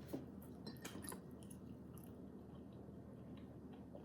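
Quiet chewing of a soft, flour-based snack, with a few small clicks and crackles in the first second or so.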